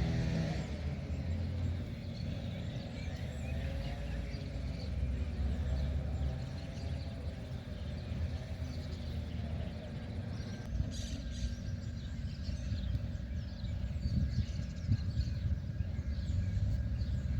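Heavy machinery engine running, its pitch wavering up and down over a steady low rumble, with birds chirping.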